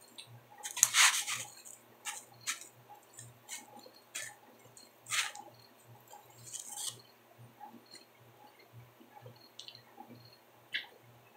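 A person biting and chewing a slice of pizza: irregular short, wet mouth and chewing noises, the loudest about a second in, over a faint low hum pulsing about twice a second.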